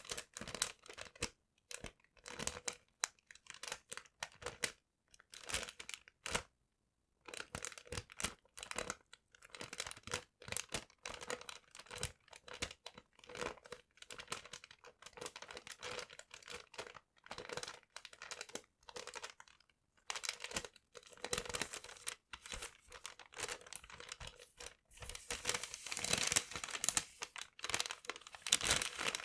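Paper crinkling and crackling as it is crumpled and torn by hand, in short irregular bursts. There is a brief pause about seven seconds in, and the crinkling grows denser and louder near the end.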